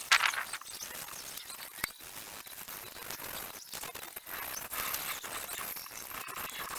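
Sandpaper scratching against a steel knife blade in uneven rubbing strokes, with a sharper, louder scrape just after the start.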